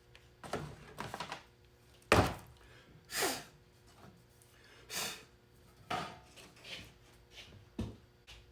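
Irregular knocks, clinks and short scrapes of metal parts being handled and positioned by hand, about eight in all, the loudest about two seconds in.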